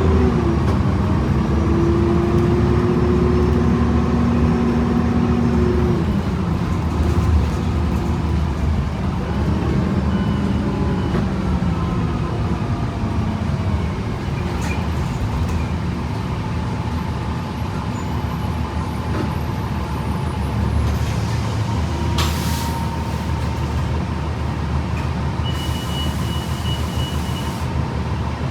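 Interior sound of a 2011 Gillig BRT bus running on its Voith automatic transmission, with a steady transmission whine that steps in pitch during the first six seconds as the bus slows for a requested stop. After that the drivetrain rumbles low, and short hisses of released air come twice, about two-thirds of the way in and again near the end.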